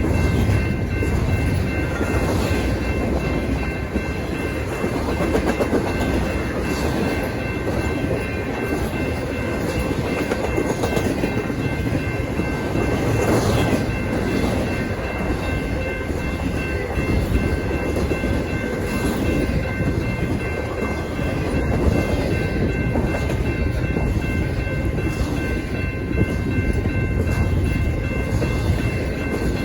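A freight train's cars rolling past at close range: a steady, loud rumble with the wheels clicking over the rail joints.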